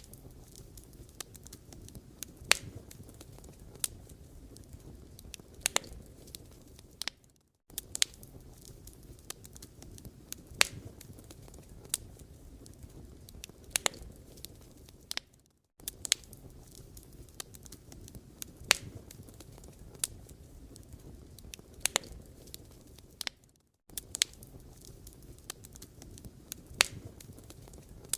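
Firewood burning and crackling: irregular sharp pops and snaps over a low, steady rumble of flame. The sound cuts out briefly about every eight seconds.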